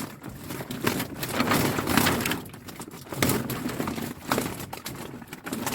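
Live carp thrashing inside a bamboo fish trap that is half full, giving irregular rustling, crackling surges and knocks.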